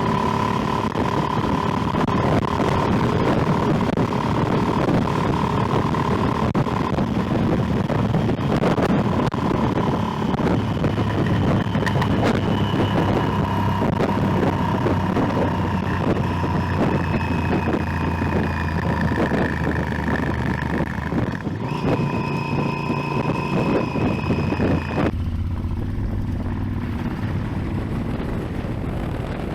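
Motorcycle engine running at road speed, its pitch shifting gradually as the throttle changes, with wind rushing over the microphone. Near the end the sound turns duller as the engine note eases.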